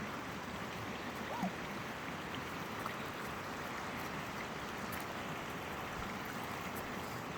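Steady rush of flowing water from a stream running over rocks.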